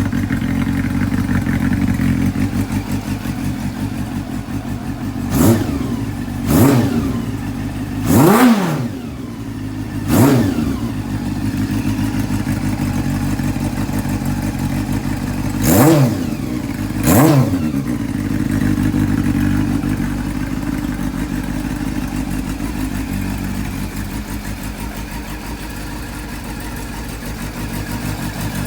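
Honda CB400 Super Four (NC39) inline-four engine idling through an aftermarket Wyvern muffler, blipped six times with quick revs that rise and fall straight back to idle.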